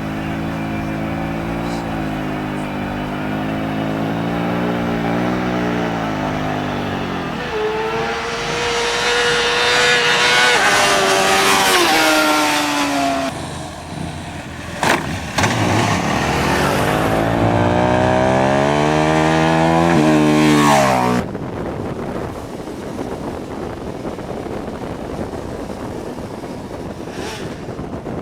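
Sport motorcycle engines running, then revving hard twice in the middle, the pitch sliding down each time as the bike goes by. It cuts off abruptly about three-quarters of the way in, leaving wind noise on the microphone.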